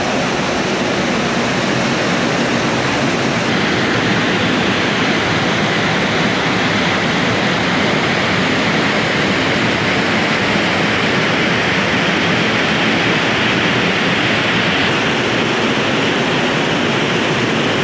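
Waterfall rushing in a loud, steady torrent: the River Braan's Black Linn Falls in spate after days of rain.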